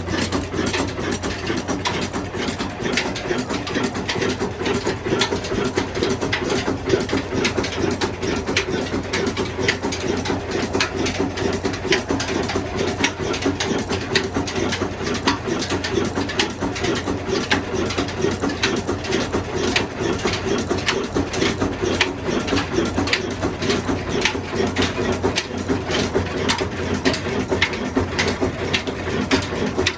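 Old Ruston diesel engine running steadily, with a constant low drone under rapid mechanical clatter and ticking from its moving parts.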